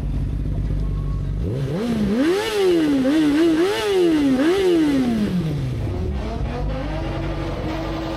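An idling engine revved in four or five quick blips, its pitch climbing and dropping repeatedly, then falling back to idle.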